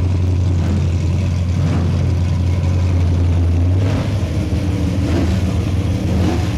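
Ford Maverick drag car's engine held at steady high revs during a burnout, the rear tires spinning. About four seconds in, the steady drone eases off and becomes less even.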